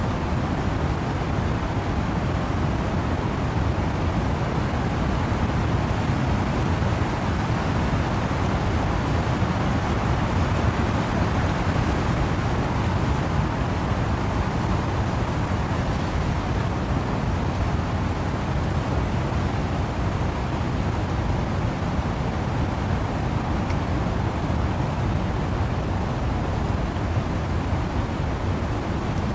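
Wind and rain in trees, a steady dense hiss with a heavy low rumble that swells gently now and then.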